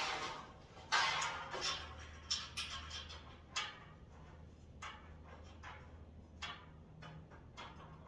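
Irregular light clicks and knocks of metal rack parts and bolts being handled during assembly, with a short sliding scrape about a second in, over a steady low hum.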